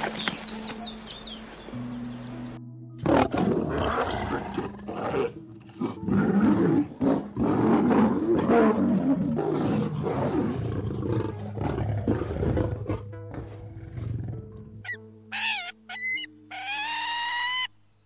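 Lioness roaring in a long, rough run of calls lasting about twelve seconds, over background music with steady held notes. Near the end come a few short, high, rising bird calls.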